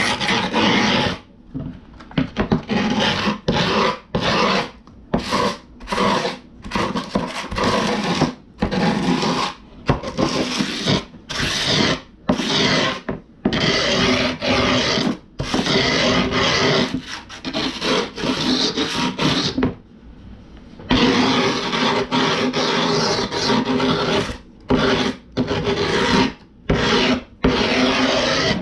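A metal skate tool scraped back and forth along the edge of fresh grip tape on a wooden skateboard deck, a gritty rasping stroke repeated about once or twice a second, with one longer unbroken scrape near the end. It scores the deck's outline into the tape to guide trimming.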